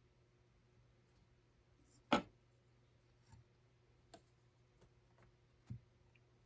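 A few scattered light clicks and knocks over a low steady hum, the sharpest about two seconds in and a duller knock near the end.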